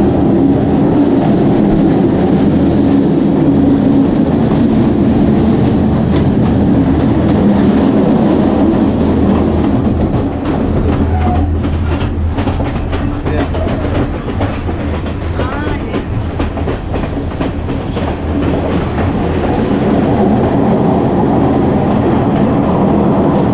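Passenger train running along the track, heard from an open carriage doorway: a steady loud rumble with the wheels clacking over the rail joints, the clacks thickest in the middle.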